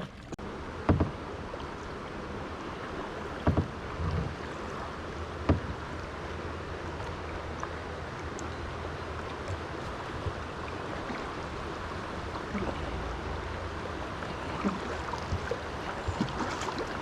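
Steady rush of river water around a kayak, with a few sharp knocks in the first six seconds.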